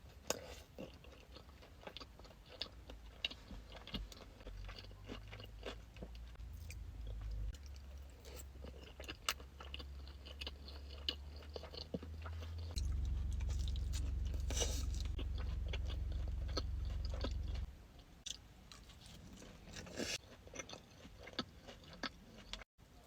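Close-up eating of sushi: chewing and biting with many small sharp mouth clicks. A low steady hum runs underneath through the middle, grows louder, then cuts off suddenly about three-quarters of the way through.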